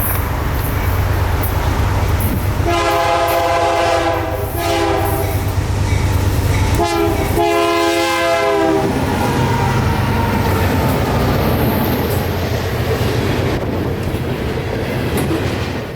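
Freight train's diesel locomotives passing with a steady low rumble and wheels clicking over the rail joints. The locomotive horn sounds long, long, short, long, the standard grade-crossing signal.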